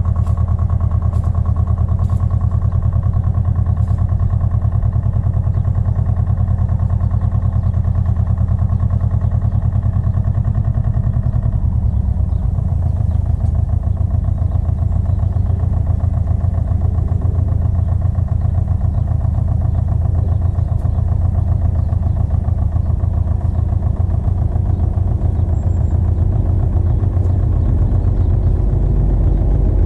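Pasquali 980 EX compact tractor's engine running steadily, its note shifting lower about twelve seconds in.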